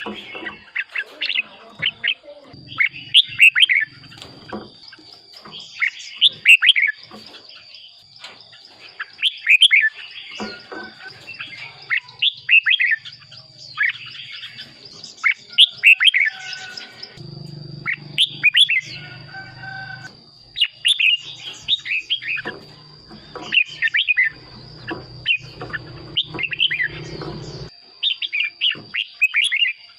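Red-whiskered bulbul singing: short, bright, warbled phrases repeated every second or two. A thin steady high tone runs behind it, and a low hum comes and goes in the second half.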